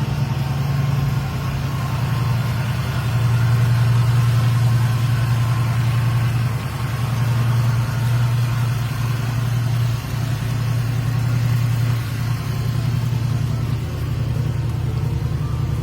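Dodge Charger's 400 cubic inch V8 with a four-barrel carburettor running at idle, a steady low rumble that swells and eases slightly now and then.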